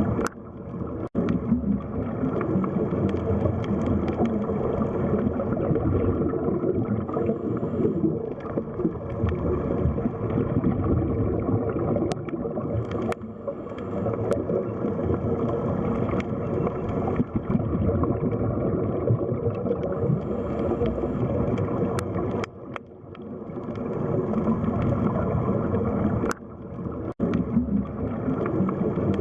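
Underwater ambience of the sea floor: a steady, dense water rumble with a few faint clicks, briefly dipping in loudness a few times.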